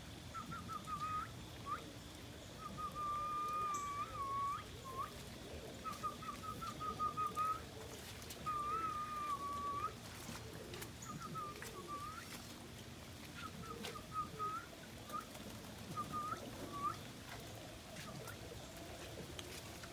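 A man whistling a run of short phrases, some held wavering notes and some quick trills, as a call to bring his pigeons out of the loft. The whistling stops a few seconds before the end.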